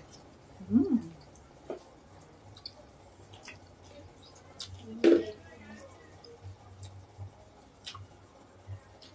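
Close-mic eating sounds: wet chewing and small sticky lip-smacking clicks from mouthfuls of braised pork hock in kare-kare sauce. Two short pitched sounds stand out, one about a second in and a louder one about five seconds in.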